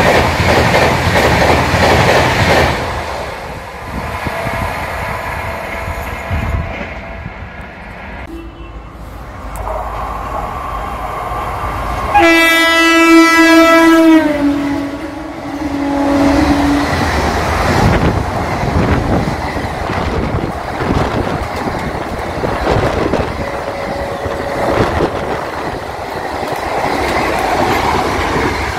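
Indian Railways express trains passing at speed, with wheels rumbling and clattering over rail joints. About twelve seconds in, an electric locomotive's horn sounds loudly for about two seconds and drops in pitch as the locomotive passes. Coaches then keep rushing past with the same clatter.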